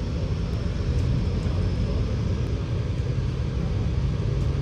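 Scania K94UB double-decker bus's rear-mounted five-cylinder diesel engine running, heard from inside the cabin as a steady low drone mixed with road noise.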